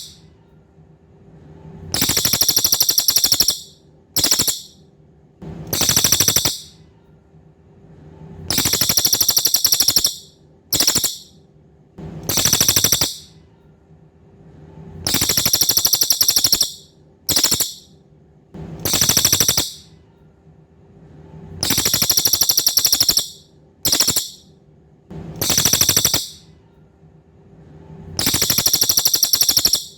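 Cililin songbird singing a loud, fast, high-pitched trill in repeated bursts. Long phrases of one to two seconds come every three seconds or so, several of them followed at once by a short clipped burst, over a faint steady hum.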